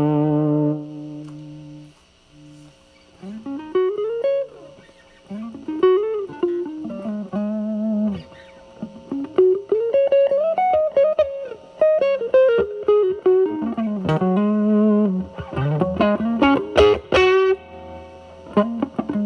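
Electric guitar, a Telecaster through a Mosrite Fuzzrite clone fuzz pedal into a Marshall Valvestate amp. It opens with a held fuzzed note with vibrato that dies away. After a short gap come single-note phrases with bends and slides, played with the fuzz cleaned up.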